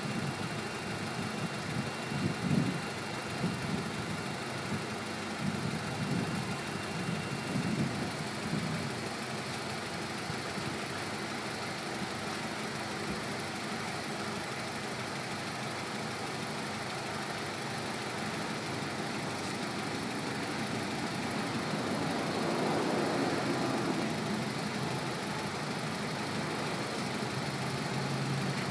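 1996 Acura Integra's four-cylinder engine idling steadily, heard close up from the open engine bay.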